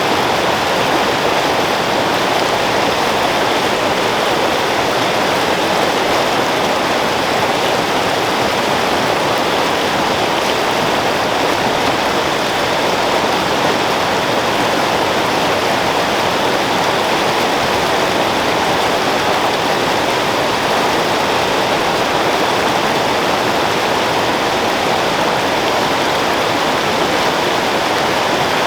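Creek water flowing and splashing over rocks, a steady rushing.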